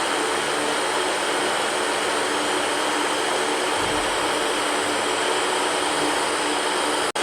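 Electric fan running steadily: an even whoosh of moving air with a faint hum underneath. It cuts out for an instant near the end.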